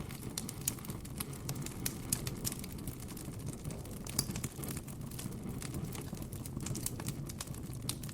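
Campfire crackling: irregular sharp pops and snaps from the burning wood, several a second, over a low steady rumble.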